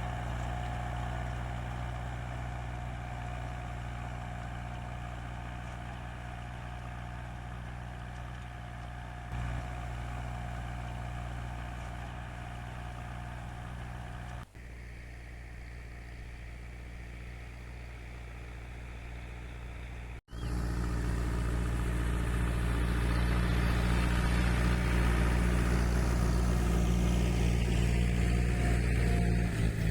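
Tractor engine running steadily at a low, even pitch. The sound breaks off twice, about halfway and about two-thirds of the way through, and comes back louder after the second break.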